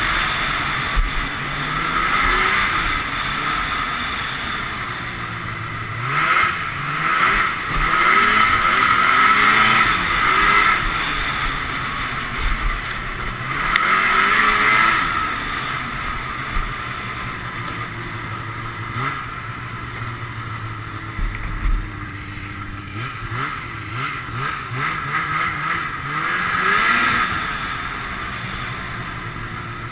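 Ski-Doo Blizzard 5500 snowmobile's fan-cooled Rotax twin two-stroke engine revving up and easing off over and over as the sled is ridden, with loud bursts of throttle about a fifth of the way in, around the middle and near the end.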